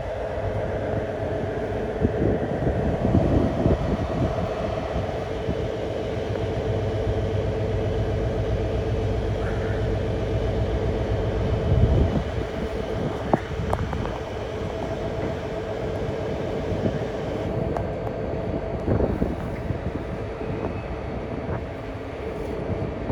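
A Class 223 (Siemens ER20) diesel-electric locomotive running with a steady droning tone. The deepest part of the drone drops away suddenly about halfway through. A few short knocks and clanks follow.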